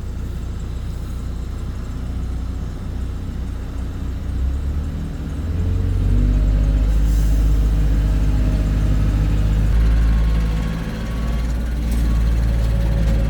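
Heavy diesel engine of construction machinery running steadily, getting louder and higher about six seconds in as it takes on more throttle, with a brief dip near the end.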